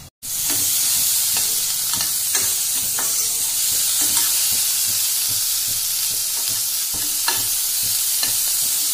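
Chopped green chillies and mustard seeds sizzling steadily as they fry in a kadai, with a spoon scraping the pan now and then as they are stirred. The sizzle starts a moment in, after a brief gap.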